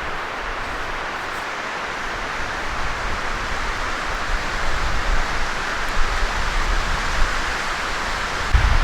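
Strong wind blowing steadily with a hiss, gusting harder in the second half, where low rumbling buffets hit the microphone, the strongest near the end.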